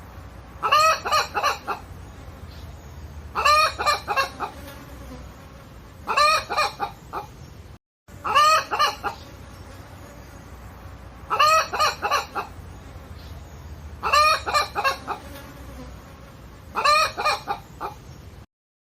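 Hen clucking in short bursts of four or five quick calls, a burst about every two and a half seconds, with a brief break in the sound near the middle.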